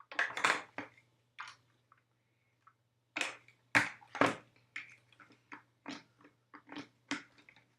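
Plastic Lego pieces clicking and clattering as they are handled, a run of short sharp clicks and knocks with the loudest few in the middle, over a faint low hum.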